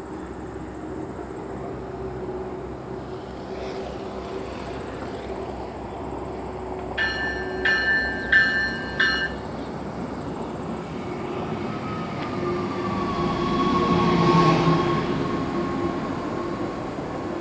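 Stadler GTW diesel multiple-unit light-rail train approaching: four short horn blasts about seven seconds in, then the diesel engine and wheels grow louder as it draws alongside, loudest about fourteen seconds in, with a whine that falls slightly in pitch as it slows into the station.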